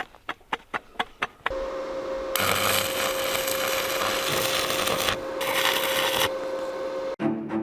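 A handful of sharp clicks, about five a second, then an electric power tool runs at a steady pitch with a rough hiss that grows louder in the middle while it works the metal. It stops abruptly near the end.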